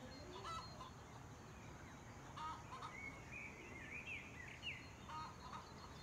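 Faint bird calls: short chirps and warbling notes, busiest from about two and a half to four and a half seconds in, over a low steady background rumble.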